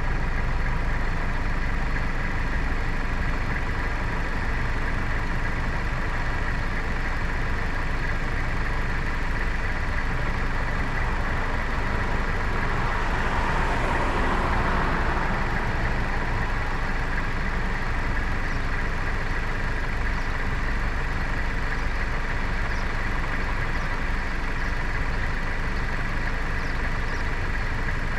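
Car engine idling steadily while stopped. Another car passes in front about halfway through, its sound rising and fading over a few seconds.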